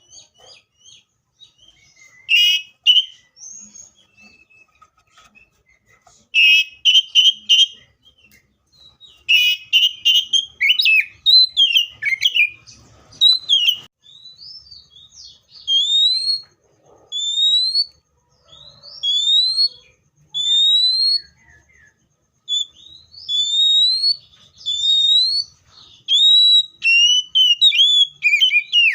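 Magpie-robin singing loud and clear. Scratchy chattering phrases come first, then a run of rising whistled notes, about one a second, broken by short pauses.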